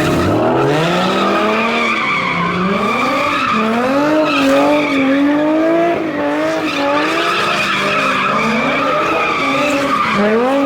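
A car drifting: the engine revs rise and fall again and again while the tires squeal in a long, continuous skid.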